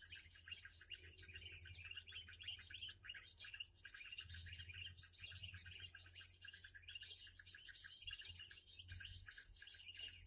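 Faint, rapid, unbroken chirping of a perenjak kepala merah lure call, a recording played through a cheap speaker to draw the birds, over a steady low hum.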